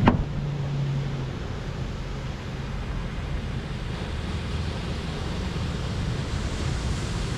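Steady wash of ocean surf with wind noise on the microphone. A single sharp knock right at the start.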